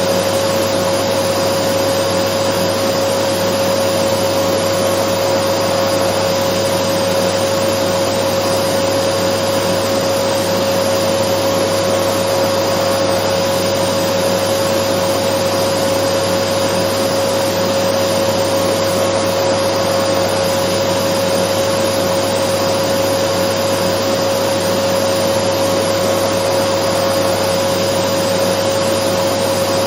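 Dyson vacuum cleaner running continuously: a loud, even rush of air with a steady whine that never changes in pitch or level.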